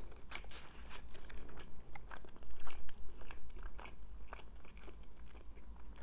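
A person chewing a mouthful of shawarma: a string of irregular wet mouth clicks and soft crunches.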